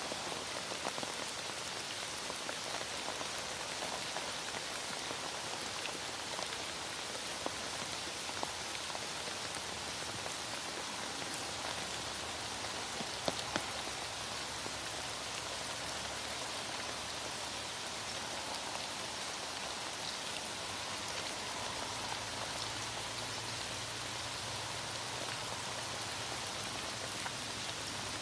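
Heavy rain falling steadily, an even hiss of drops on surfaces. There are a couple of sharp ticks about halfway through.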